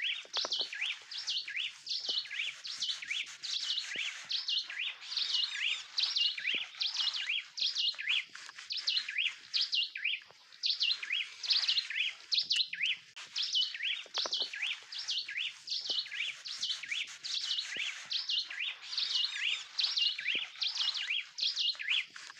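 Birds chirping without a break, a quick run of repeated high chirps about three a second.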